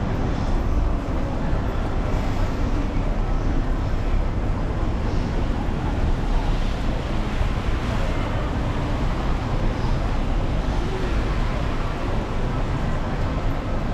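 Steady city street noise on a rainy day: a continuous low rumble of traffic under a wash of wet-street hiss.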